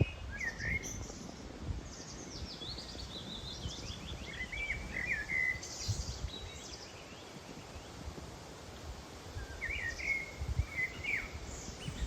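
A songbird singing three short, warbling phrases; the longest falls in pitch. Wind gusts buffet the microphone underneath.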